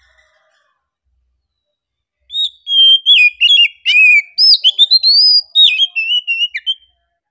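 Oriental magpie-robin singing: after a short pause, a phrase of varied, clear whistled notes with quick up-and-down glides that lasts about four and a half seconds.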